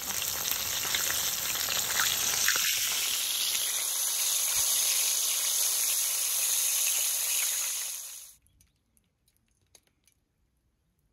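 Food sizzling in a hot pan, a steady loud hiss with a few crackles, cutting off abruptly about eight seconds in.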